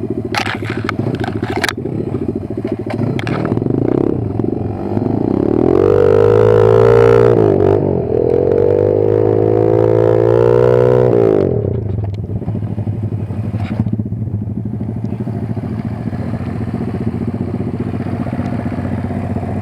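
Kayo 140 pit bike's single-cylinder engine running, revved up and held high from about five seconds in, then dropping back to a lower speed near twelve seconds. A few sharp clattering knocks near the start.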